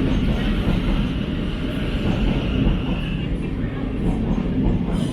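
Thameslink Class 700 electric train running into the platform: a steady low rumble, with a higher hiss that fades about three seconds in.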